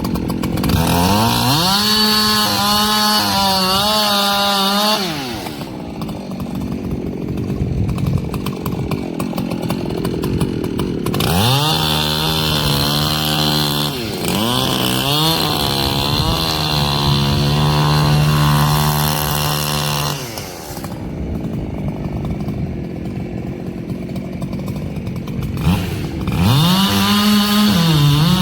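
Echo CS-7310 two-stroke chainsaw revved to full throttle three times, its pitch wavering and dipping under the load of cutting wood, and dropping back to idle between the cuts.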